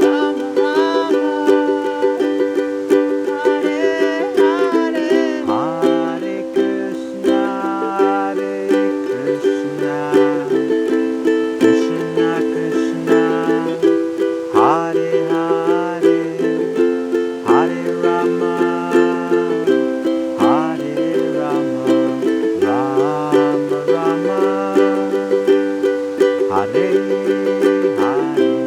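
Ukulele strumming chords in a steady rhythm, moving through a repeating chord progression, with the chords changing every second or two.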